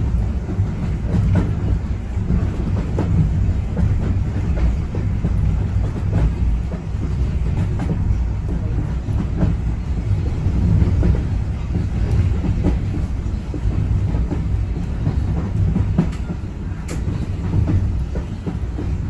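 Heritage railway train running on the track: a steady low rumble with irregular clicks of the wheels over rail joints.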